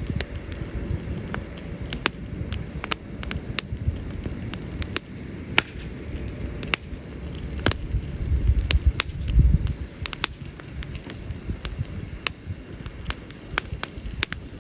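Wood campfire crackling, with sharp irregular pops several times a second over a low rumble. The rumble swells briefly a little past the middle.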